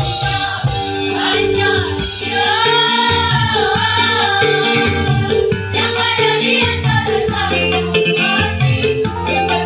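School choir singing a melody over a full instrumental accompaniment with a steady beat.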